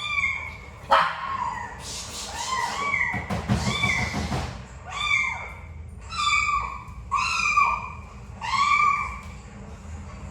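A young animal crying repeatedly from inside a box: short, high cries that rise and fall in pitch, about one a second. There is rustling and knocking about midway.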